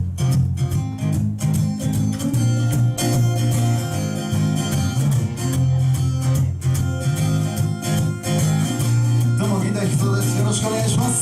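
Instrumental intro of a rock song: electric guitar over steady low bass notes and a regular beat, with no singing yet.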